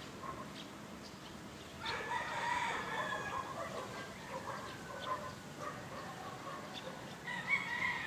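A rooster crowing, once about two seconds in and again near the end.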